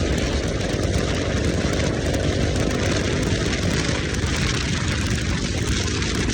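Motorcycle engine running at a steady speed, with wind rushing over the microphone.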